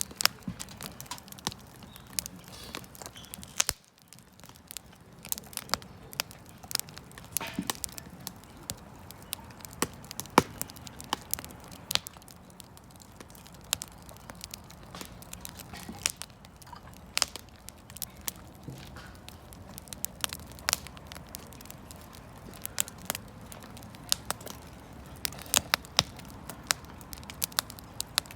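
Wood campfire crackling, with irregular sharp pops and snaps over a steady low hiss of burning.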